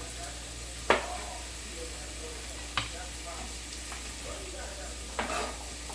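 Food sizzling in a frying pan, with a utensil knocking sharply against the pan three times: about a second in, near the three-second mark and again past five seconds.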